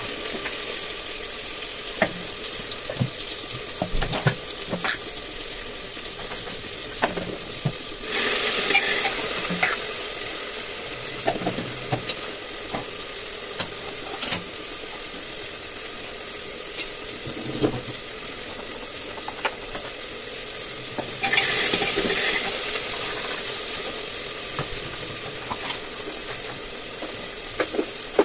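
Food frying in a pot on a gas stove: a steady sizzle dotted with small crackles and pops, swelling to a louder hiss twice, about eight seconds in and again about twenty-one seconds in, each time for a couple of seconds.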